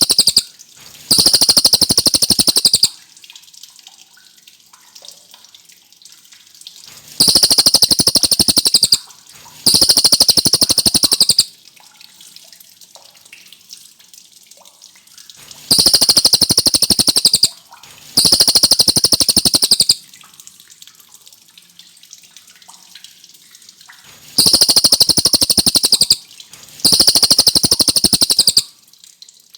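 A cililin songbird singing loud, rapid trilled phrases, each about two seconds long. The phrases come in pairs about every eight and a half seconds, with a faint steady hiss in the gaps.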